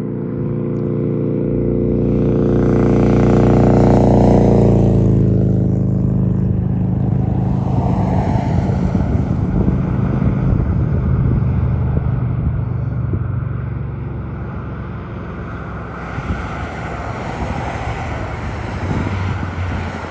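A road vehicle passes close by, its engine note dropping in pitch as it goes past, loudest about four seconds in. Then a steady rumble of traffic and engines follows, swelling again near the end.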